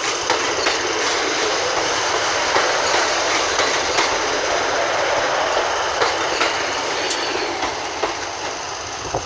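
Class 156 Sprinter diesel multiple unit pulling into the platform: a steady rolling rumble of wheels on rail, with scattered sharp clicks. It eases slightly in level near the end.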